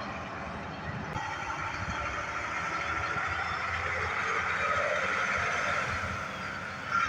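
Roadside traffic noise: a truck's engine and tyres passing, growing louder in the middle and easing off near the end.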